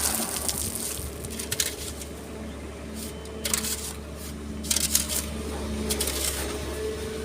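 Excavator diesel engine running with a steady low hum, with gritty crunching and scraping of sand and stones about one and a half, three and a half and five seconds in. A whine rises near the end.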